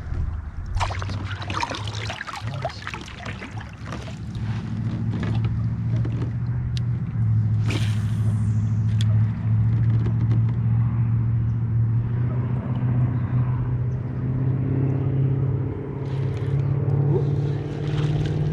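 A small boat motor runs steadily as the kayak moves off, its hum climbing slightly in pitch. A few knocks and rattles of gear on the hull come in the first few seconds.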